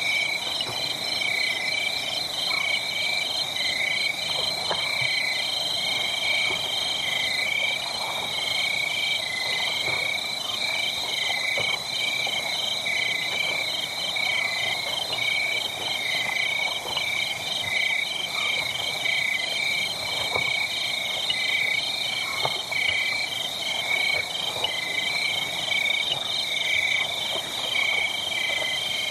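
A steady night chorus of frogs and insects: high, rhythmically pulsing calls that go on without a break. Underneath are faint scattered pops of a crackling wood fire.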